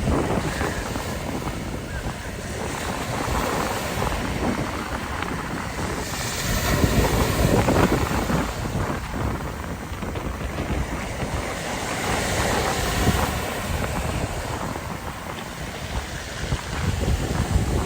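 Mediterranean sea waves washing in, with strong wind buffeting the microphone as a heavy low rumble. The surf swells louder about six to eight seconds in and again near thirteen seconds.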